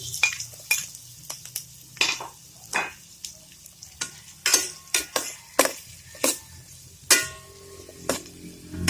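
A cooking utensil scraping and knocking against a pan, irregularly about once or twice a second, as garlic, red onion and ginger are stirred while they sauté in hot oil, with a light sizzle underneath.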